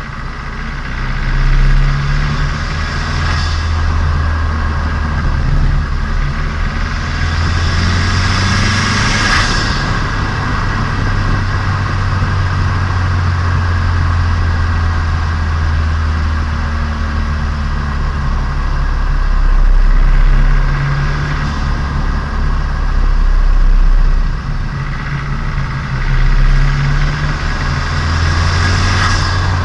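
Turbocharged Nissan Micra engine and exhaust heard onboard while driving, during break-in of the engine. The engine note rises and falls with the throttle, swelling louder several times, with brief high-pitched hissing rushes now and then.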